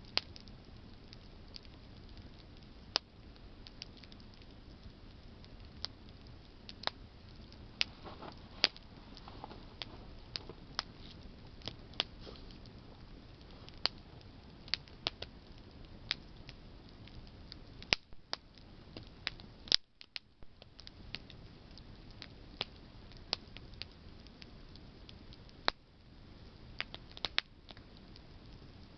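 Wood campfire burning: irregular sharp crackles and pops from the burning branches, a few louder than the rest, over a steady low hiss of the flames.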